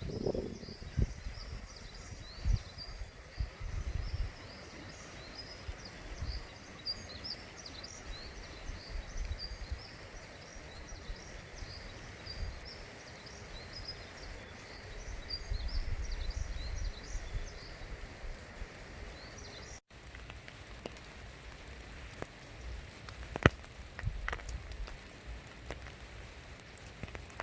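Many small birds chirping in quick short calls over a steady outdoor hiss, with low rumbles now and then. About two-thirds of the way in the sound cuts; the chirping stops and a few sharp taps are heard.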